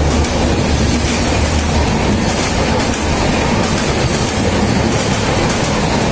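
Mumbai suburban electric local train running: a loud, steady rumble of wheels on the track, with a low hum that stops about two seconds in.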